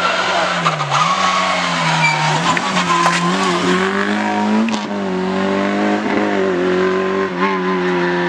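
Rally car engine at high revs. Its pitch dips and climbs back twice early on, then it is held steady and high through the second half, with some tyre squeal.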